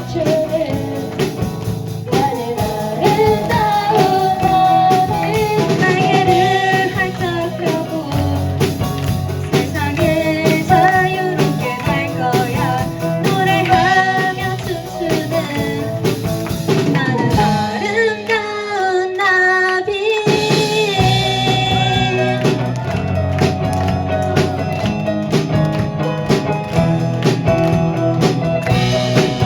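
Live rock band playing a song with vocals over electric guitar, bass, keyboard and drum kit. The bass and drums drop out for a few seconds past the middle, then the full band comes back in.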